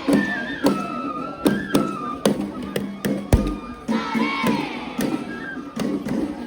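Japanese festival music (matsuri-bayashi): a bamboo flute plays a held, stepping melody over frequent sharp percussion strikes, while a crowd shouts. There is a single heavy thud about halfway through.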